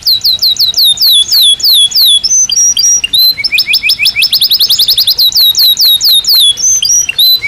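Belgian canary singing loudly: a run of rapid whistled notes, each sweeping downward, about four a second. About three seconds in it switches to a faster trill of short rising notes, then returns to the falling notes.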